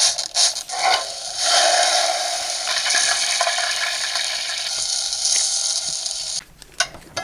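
Electronic sound effect from the 2023 Barbie Dreamhouse's toy kitchen playing through its small built-in speaker: a steady hissing noise lasting about six seconds that cuts off suddenly.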